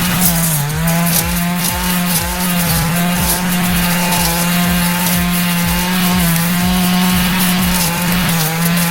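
Engine brush cutter running at high speed while clearing weeds, a steady high engine note that dips briefly in pitch a little after the start and again near the end.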